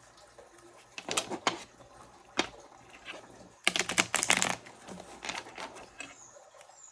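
A tarot deck being shuffled by hand: irregular bursts of quick papery clicks and flutters as the cards slap together, densest about four seconds in.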